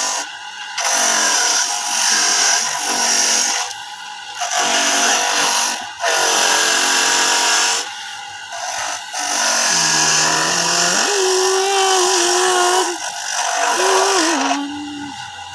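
Electric coconut grating machine running and shredding coconut: a loud, dense grinding in long stretches, broken by short dips every few seconds.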